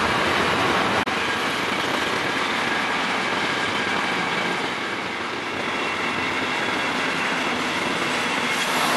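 Container wagons of a long freight train rolling past on the rails, a steady rushing rumble of wheels and wagons. There is a brief sharp break in the sound about a second in.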